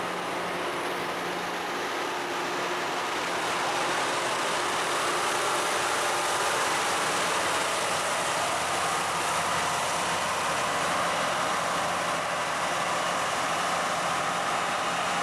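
LORAM rail grinder working the track: a steady, harsh rushing noise from its grinding stones on the rail over the hum of its diesel engines, growing a little louder a few seconds in.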